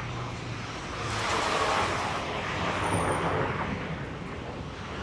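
Road traffic going by: a steady wash of vehicle noise that swells and eases as cars pass.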